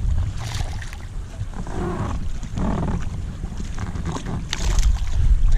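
Wind buffeting the microphone as a steady low rumble, with a few light knocks and clicks from handling on the kayak.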